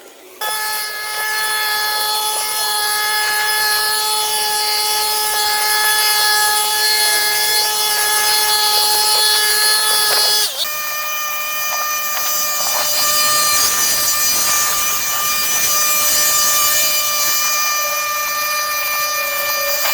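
A garden power tool's motor running with a steady high-pitched whine; about ten seconds in it drops out briefly and comes back at a higher pitch.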